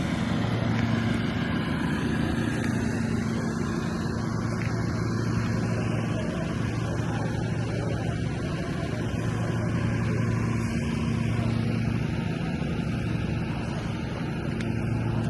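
Car engine running steadily at an even speed, a low hum that holds its pitch throughout.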